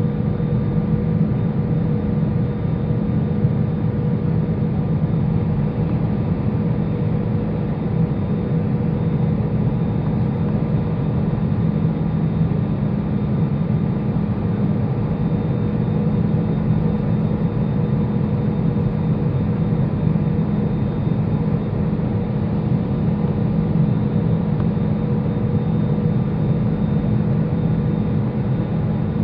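Steady drone of an Airbus A320-214 in flight on final approach, heard from inside: its CFM56-5B engines and airflow make an even rushing noise with a low hum and a faint high whine. It does not change.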